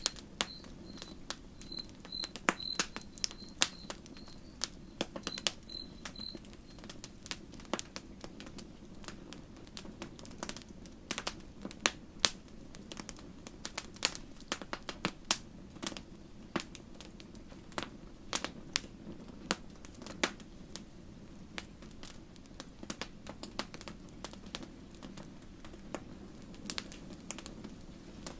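Wood campfire crackling, with irregular sharp pops and snaps over a low, steady hiss of burning. A cricket chirps in a regular rhythm during the first six seconds or so.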